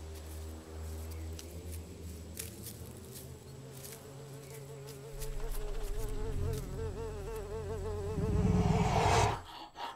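A flying insect buzzing, its pitch wavering, growing louder over a low rumble and swelling near the end before cutting off abruptly.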